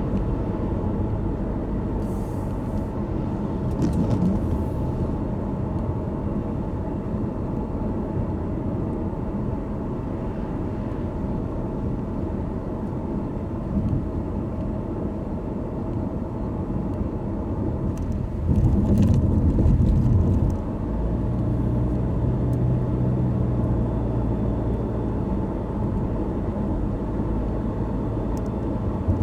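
Steady road noise and low rumble of a car driving on a wet road. About two-thirds through, a louder low rush lasts a couple of seconds, followed by a steady low hum.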